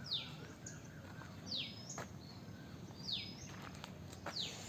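A bird calling: a short falling whistle, repeated four times about a second and a half apart, with a few faint clicks between calls.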